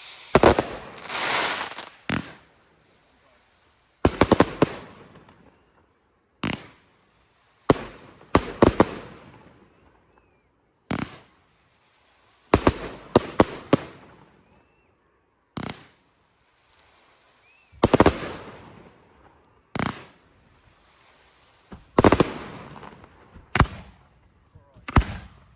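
Aerial firework shells bursting in a display: sharp bangs every second or two, some coming in quick clusters of two or three, each trailing off in a fading echo.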